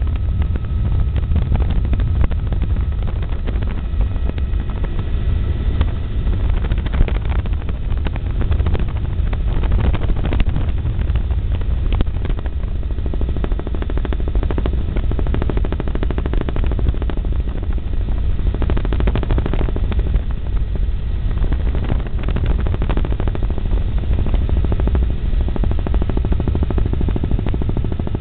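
Helicopter in flight: the deep, steady drone of the engine and the rapid, even chop of the rotor blades.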